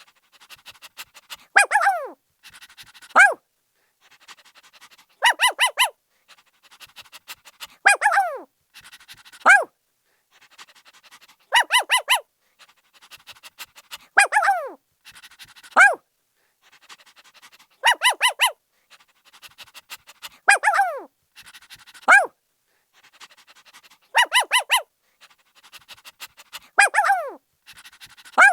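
Puppy barking in high-pitched yaps and yelps: a quick run of short yaps, then a few yelps that slide down in pitch. The same group of calls repeats about every six and a half seconds.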